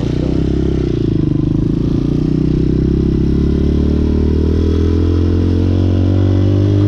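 Hawk 250 motorcycle engine pulling under acceleration, its pitch climbing slowly and steadily throughout.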